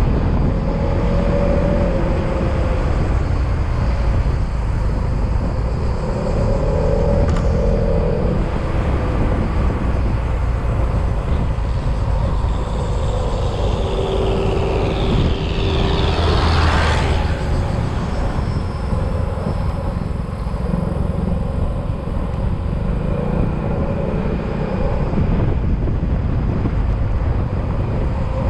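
Yamaha XMAX scooter's engine running under way, with wind and road noise, its pitch rising and falling a few times with the throttle. About halfway through, a louder rushing sweep builds and passes.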